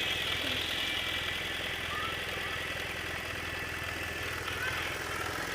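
Motorcycle engine running steadily, with a low even rumble and a hiss of wind or road noise.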